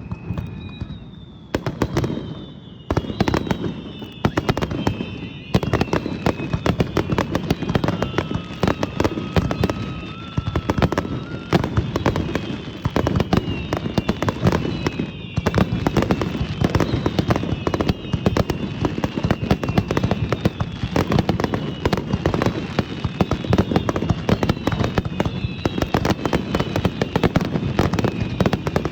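Aerial fireworks going off in a dense barrage: rapid crackling bangs with many falling whistles overlapping one after another, starting about a second in.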